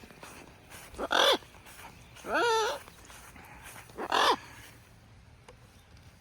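Military macaw calling three times: a short sharp call about a second in, a longer call wavering in pitch a second later, then another short call about four seconds in.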